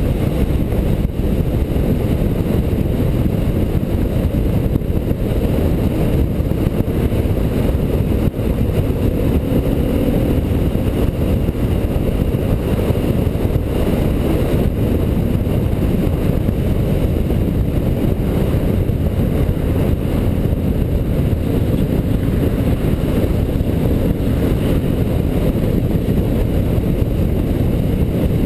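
Motorcycle being ridden on the road: a steady low rumble of wind buffeting the microphone mixed with the engine's drone, the engine pitch rising slightly about ten seconds in.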